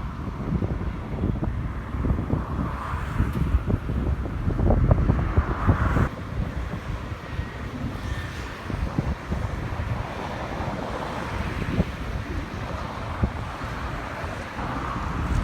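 Strong gusting wind buffeting the microphone, over the rush of wind-driven waves and whitecaps on a rough lake. The buffeting drops suddenly about six seconds in.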